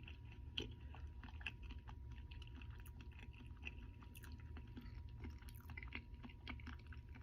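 A person chewing a Double Big Mac with diamond grills in, softly and steadily: many small irregular mouth clicks and smacks. A steady low hum runs underneath.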